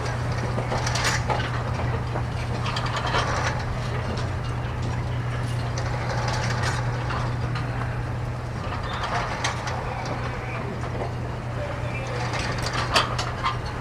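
A steady low engine hum, as of fire apparatus running at the scene, with irregular bursts of hiss and clatter over it and a sharp click near the end.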